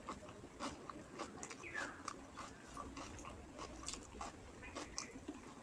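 A person chewing a mouthful of rice and fish curry, with wet mouth clicks and smacks at an irregular pace.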